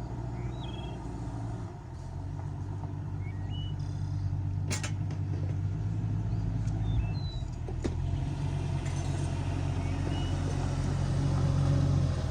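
Vehicle engine idling steadily, getting a little louder near the end, with two sharp clicks and a few faint high chirps over it.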